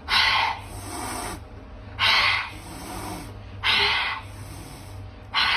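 An animal's loud breathy rasps, four in a row, each about half a second long and coming about every two seconds.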